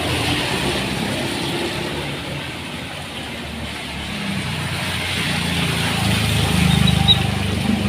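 A motor vehicle's engine hums low and wavering over a steady hiss, growing louder in the last few seconds.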